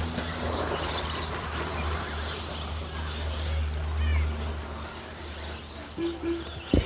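RC stadium trucks racing on a dirt track, heard as a wash of motor and tyre noise with faint short chirps, over a steady low hum. A short sharp knock comes near the end.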